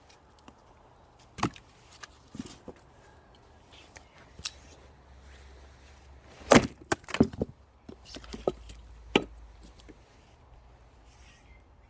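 Firewood knocking: a series of sharp wooden impacts with pauses between them, the loudest about six and a half seconds in, followed by a few more.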